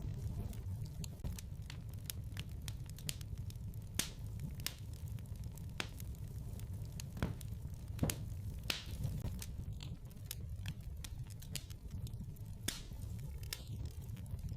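Wood fire crackling in a fireplace: irregular sharp pops and snaps over a low steady rumble, the loudest pop about eight seconds in.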